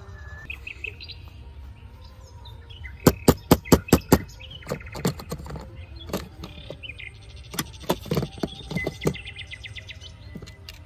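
A run of about six sharp knocks or clicks in quick succession a few seconds in, then scattered knocks through the middle, over a low steady hum with birds chirping.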